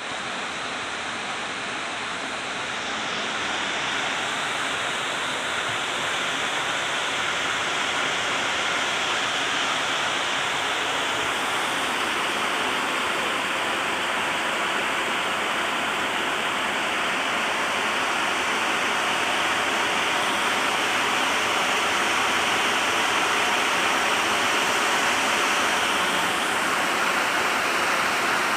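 Heavy rain falling: a steady, dense hiss that grows slightly louder over the first few seconds.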